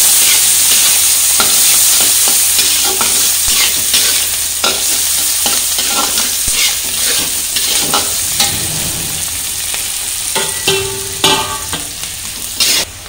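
Chopped onions and green chillies sizzling in hot oil in a kadhai, with a metal spatula stirring and scraping against the pan in irregular strokes. The sizzle eases off toward the end.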